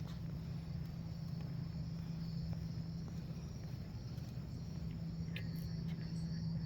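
Insects chirping in a steady, high, slightly pulsing chorus, over a constant low hum.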